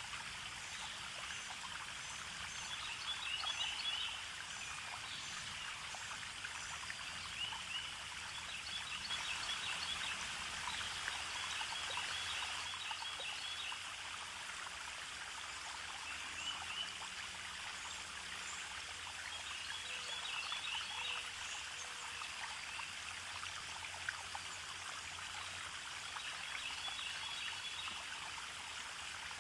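A small stream trickling steadily, with birds chirping in short high phrases every few seconds.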